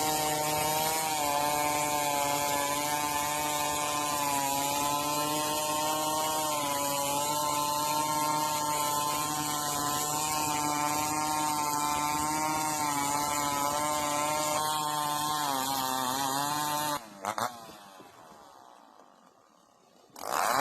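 Two-stroke chainsaw running at high speed, its pitch wavering slightly as it works through wood. It cuts off abruptly about 17 seconds in, followed by a brief burst and then near quiet, before a loud sound starts again at the very end.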